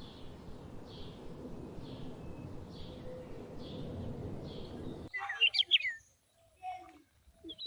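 Outdoor rural ambience with a soft call repeating about once a second. After an abrupt cut about five seconds in, a quick burst of sharp bird chirps, then near quiet.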